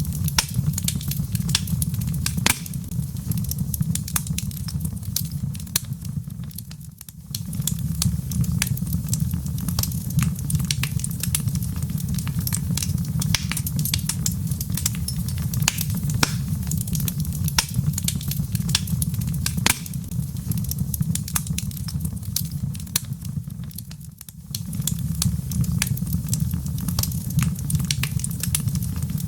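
Wood fire in a fireplace, logs crackling with many sharp pops and snaps over a steady low rumble. The sound dips briefly twice.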